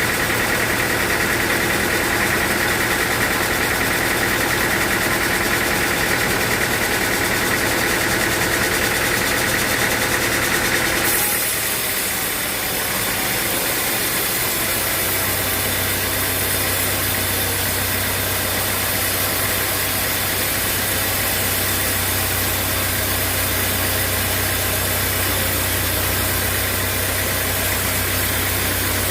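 Sawmill machinery running steadily. About eleven seconds in the sound changes suddenly: a high steady tone drops away, a hiss takes its place, and a few seconds later a low steady hum sets in.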